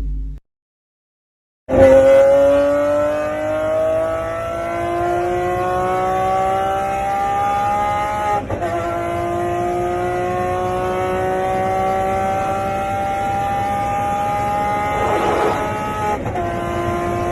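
Electric treadmill motor whining as the belt speeds up, its pitch rising slowly, with a brief break partway through before it rises again, over the hiss of the running belt.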